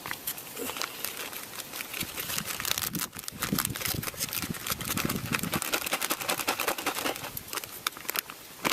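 Crinkling and rustling of packaging being handled: a continuous run of irregular crackles.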